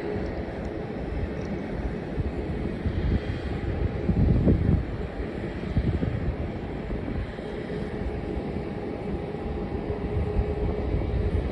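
Distant jet airliner engines running with a steady hum and low rumble, with gusts of wind buffeting the microphone, the strongest about four seconds in.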